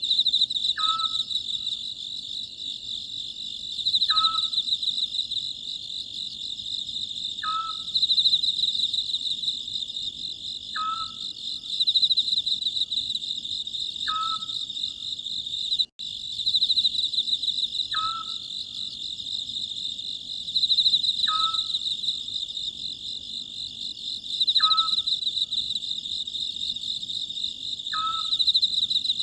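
Oriental scops owl calling, a short falling note repeated about every three and a half seconds, over a steady chorus of crickets trilling.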